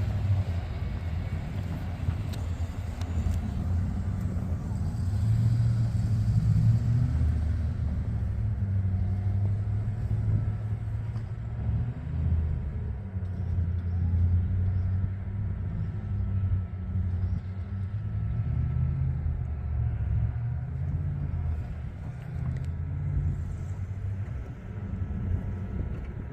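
Plow truck engine running with a low rumble that swells and eases as the truck works.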